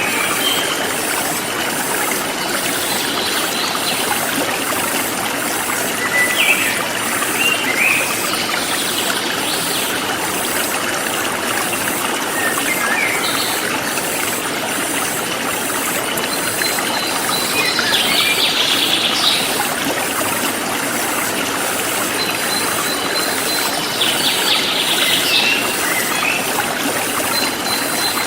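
Forest stream flowing steadily, with songbirds calling now and then: short chirps throughout, and trilled calls about two-thirds in and again near the end. A fast, regular high-pitched pulsing, insects, runs underneath.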